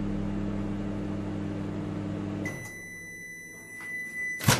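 Microwave oven running with a steady hum that stops about two and a half seconds in. A steady high beep then sounds for about two seconds, signalling the end of the cooking cycle. Near the end comes one loud sharp click as the door is opened.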